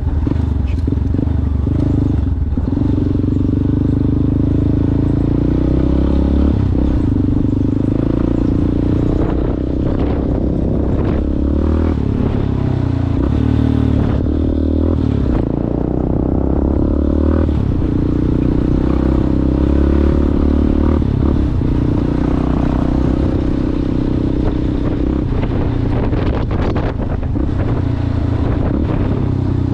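Yamaha Ténéré motorcycle with an aftermarket Coyote exhaust running off-road, its engine note rising and falling with the throttle. Scattered knocks and clatter come from the rough ground.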